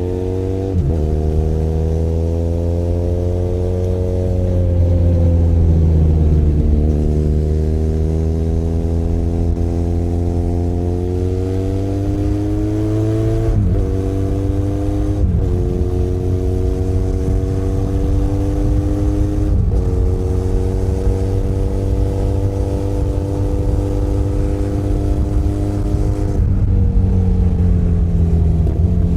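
Benelli Leoncino 500 Trail's parallel-twin engine pulling under throttle. Its pitch rises, eases off and drops around five seconds in, then climbs again, followed by three upshifts a few seconds apart where the pitch steps down. The engine eases off near the end.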